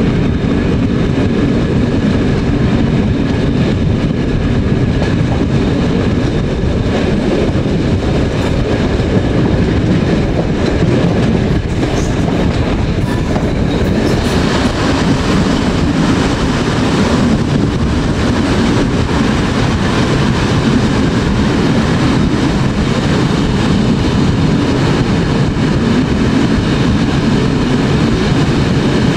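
Historic passenger train hauled by a rheostatic electric locomotive, running steadily on the rails with a clickety-clack of wheels over rail joints. A harsher, hissier edge comes in about halfway through.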